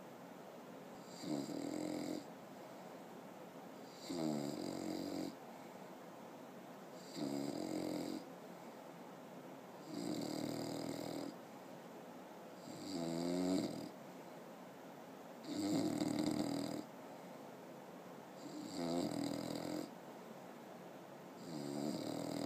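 Six-month-old English bulldog snoring in its sleep: a pitched snore about every three seconds, each lasting about a second, eight in a row, some wavering up and down in pitch.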